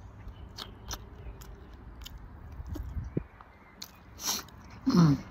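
A person chewing food close to the microphone, with small wet mouth clicks. Near the end a short breathy noise, then a brief voiced hum that falls in pitch.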